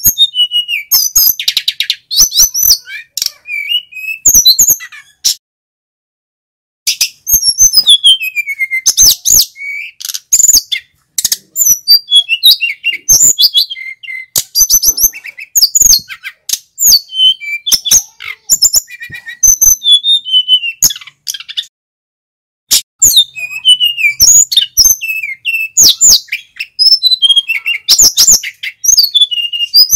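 Male sikatan gunung (mountain flycatcher) singing loudly: fast runs of sweeping whistled notes and trills, broken by two short pauses.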